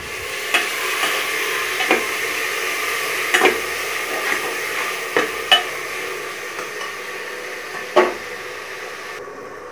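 Chopped tomatoes and fried onions sizzling in oil in an aluminium pressure cooker, being sautéed until soft. A slotted spatula stirs them, knocking and scraping against the pot about half a dozen times, while the sizzle slowly dies down.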